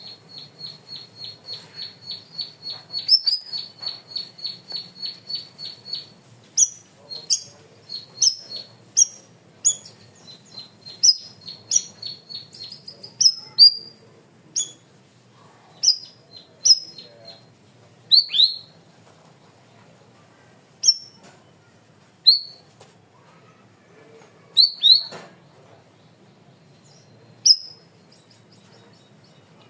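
Cucak rawis (bayeman) singing loudly: a fast run of repeated high chips, about four a second, then a string of sharp, high whistled notes that sweep downward, coming about once a second and more sparsely toward the end.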